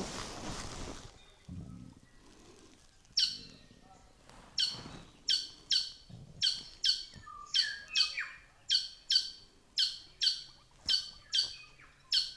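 A stitchbird (hihi) giving a long run of sharp, short calls, about two a second, each sweeping down in pitch. Before the calls start there is a brief rustle and a few soft knocks.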